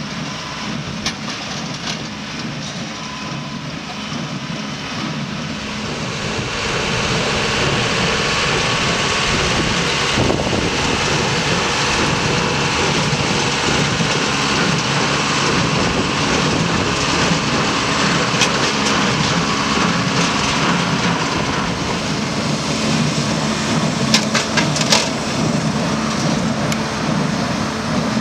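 John Deere 5085E tractor's diesel engine running under load while driving a John Deere 328 small square baler through hay, a steady mechanical run that grows louder about six seconds in. A few sharp clacks from the machinery stand out, a cluster of them near the end.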